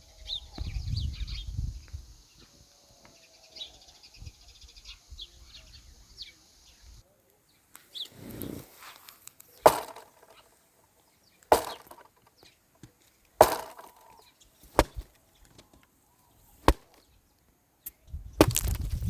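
Birds chirping over a low rumble, then after a sudden change, six sharp knocks spaced one and a half to two seconds apart.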